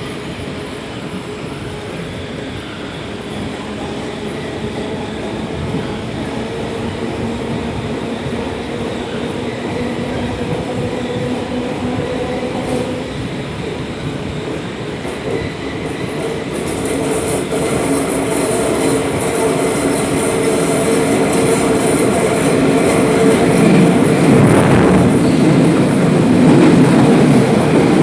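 Onboard running noise of an ET 472 S-Bahn electric multiple unit: a steady rumble of wheels on rails with a few faint held tones. It grows louder from about halfway, as a high hiss joins in.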